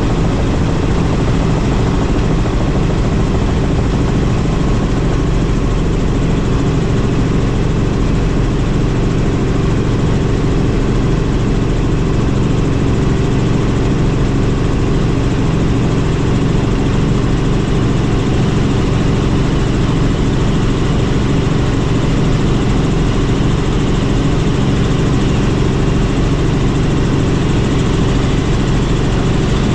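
Helicopter in flight: a steady, loud drone of rotor and engine.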